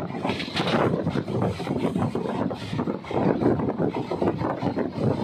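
Passenger train in motion: a steady running noise of the coach's wheels on the rails.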